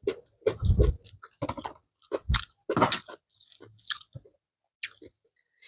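A person chewing a mouthful of food: an irregular run of crunches and wet mouth clicks, frequent for the first three seconds and thinning out after that.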